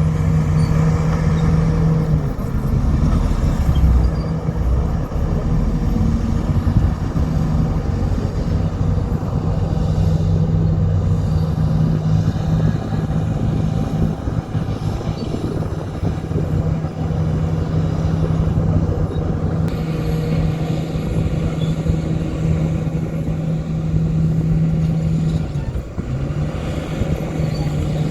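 Diesel engine of heavy earthmoving equipment running steadily with a deep, even hum, its pitch dipping briefly near the end before picking up again.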